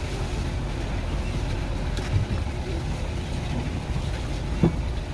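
Steady low mechanical rumble, with two short knocks, one about two seconds in and one near the end.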